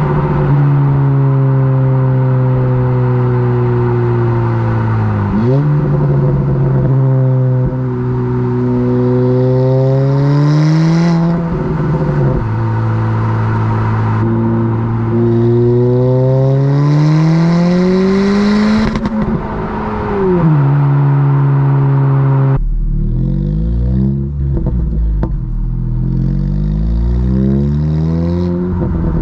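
2022 Honda Civic Si's turbocharged 1.5-litre four-cylinder, with a 27WON downpipe and stock exhaust, accelerating through the gears. The engine note rises in pitch and drops at each of three upshifts. About 23 seconds in it changes to a lower, rumbling note at low engine speed.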